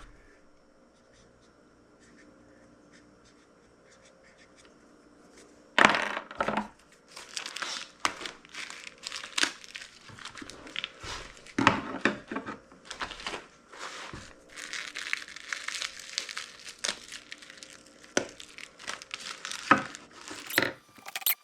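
Near silence for about six seconds, then plastic poultry shrink bags crinkling and rustling in irregular bursts as bagged whole chickens are handled.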